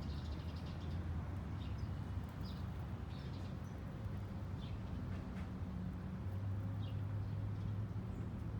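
Small birds chirping, short scattered calls every second or so, over a steady low hum.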